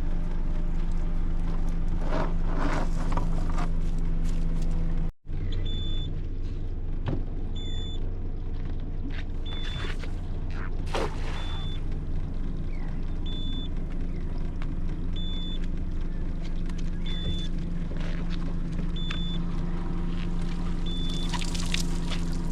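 Boat motor running steadily under way. After a brief cut about five seconds in, a short high beep repeats about every two seconds.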